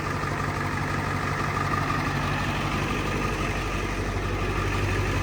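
A machine running steadily: an even low hum with a fainter higher whine, unchanging throughout.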